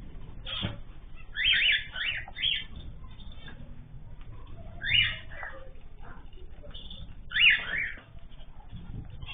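Ornamental cage birds calling: a quick run of three loud calls about a second and a half in, another near the middle and one more near the end, each sweeping in pitch, over a low steady background noise.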